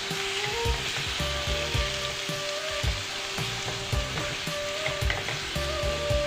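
Minced chicken sizzling in hot oil with garlic, onion and chili as it is sautéed in a pan, with a steady hiss. It is stirred, with a knock or scrape every second or so.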